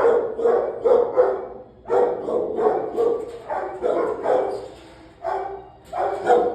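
A dog barking aggressively in rapid runs of loud barks, with short pauses between the runs.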